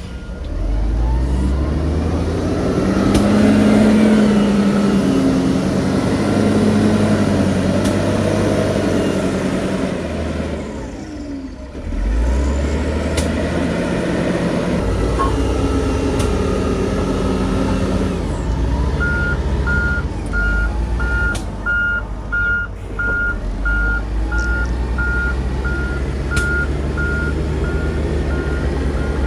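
Heavy diesel construction machinery working, the engine's revs rising and falling under load. In the last third a reversing alarm starts beeping steadily, about twice a second.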